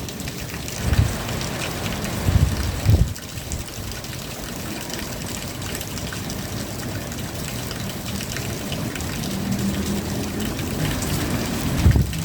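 Steady rain falling, with a few brief low thumps in the first three seconds and again near the end.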